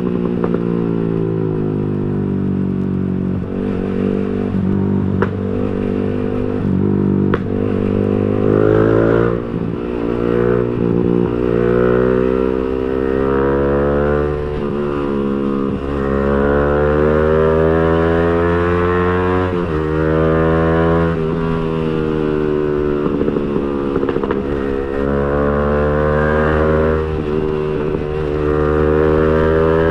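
Yamaha R15 V3's single-cylinder engine through an aftermarket racing exhaust, ridden and pulling through the gears. Its pitch climbs as it accelerates and drops sharply at each upshift, several times over.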